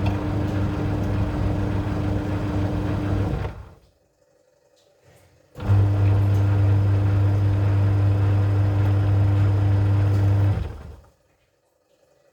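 Wash motor of a Sanken TW-1122GX twin-tub washing machine running with a steady electric hum, stopping for about two seconds, running again for about five seconds and stopping once more. This run-pause-run pattern is typical of the wash timer reversing the pulsator, and here it shows the replaced wash motor working.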